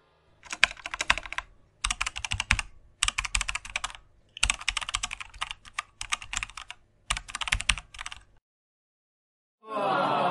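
Computer keyboard typing sound effect: rapid key clicks in about five bursts of a second or so each, with short gaps, stopping about eight seconds in. A music track with chanting starts near the end.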